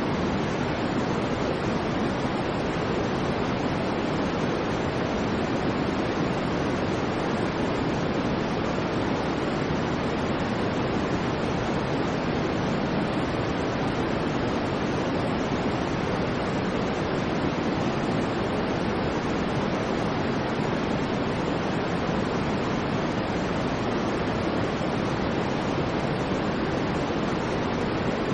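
Steady, unchanging white noise track: an even hiss with most of its weight in the low-mids, no swells or breaks.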